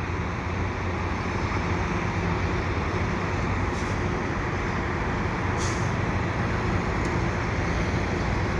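Steady rumble of city traffic and running vehicle engines, with a low hum throughout. Two short hisses come a little before and after the middle.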